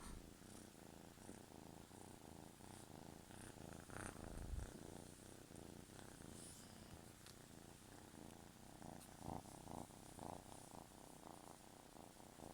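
Kitten purring, faint and steady, with one soft low bump about four seconds in.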